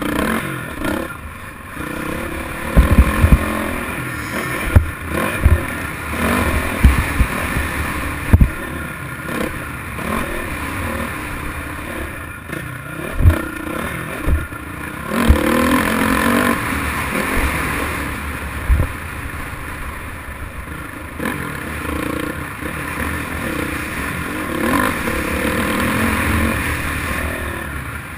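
Motocross dirt bike engine revving up and down as it rides a track, with a series of sharp low thumps and clatter, most between about three and nine seconds in.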